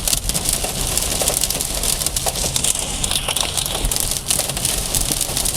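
Hail pelting the roof and windshield of a car, heard from inside the cabin as a dense, steady clatter of countless small hits.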